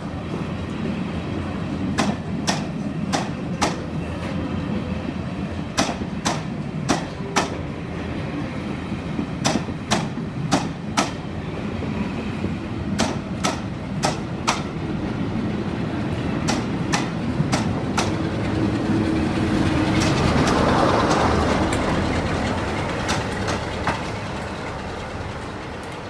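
Passenger train rolling past along the platform, its wheels clicking over the rail joints in quick pairs over a steady rumble. About twenty seconds in a hiss swells and fades as the train draws to a stop.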